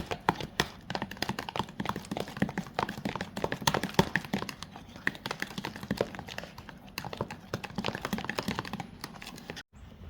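Rapid, irregular clicking and tapping that cuts off abruptly near the end.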